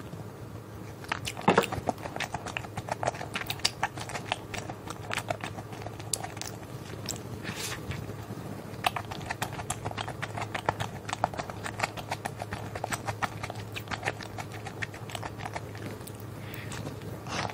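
Close-mic chewing and biting of crusty sriracha sausage bread: a steady run of crisp, irregular crunching clicks, with one louder knock about a second and a half in.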